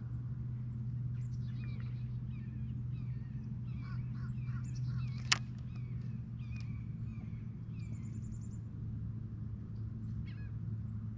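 Several birds singing and calling in varied short chirps, whistled glides and a fast high trill, over a steady low hum. One sharp click about five seconds in.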